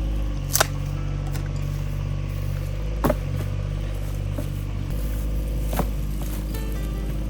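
Three sharp cracks of dry pine twigs snapping, each about two and a half seconds apart, over a steady low motor hum.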